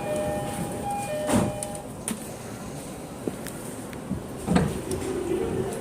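Cabin sound of an E231-800 series electric commuter train recorded from the floor: a steady rumble with a few short steady tones early on, a sharp thud about a second and a half in and another a little after four seconds. Near the end the motor whine starts to rise as the train begins to pull away.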